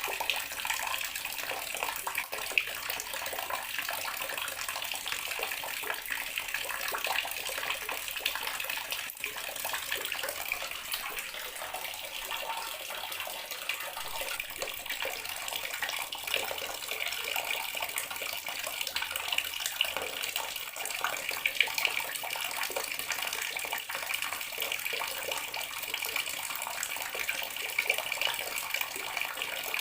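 Bathroom water tap running steadily, the stream splashing into the basin or tub below.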